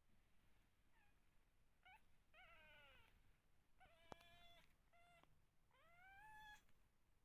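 Kittens mewing: about five short, high calls in a row, the last one longer and rising in pitch, with a single sharp click about four seconds in.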